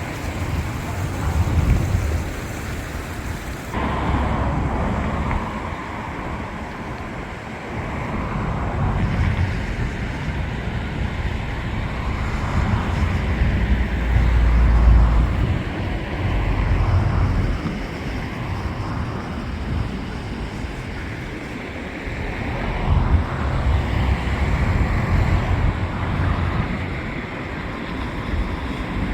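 Wind buffeting the microphone, with heavy low rumbles over a steady rushing noise that swells and fades every few seconds.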